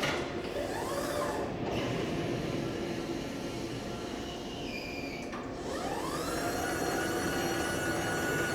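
Electric motor of a reach truck whining, rising in pitch about half a second in, fading, then rising again near six seconds in and holding a steady tone to the end, over a constant mechanical hum.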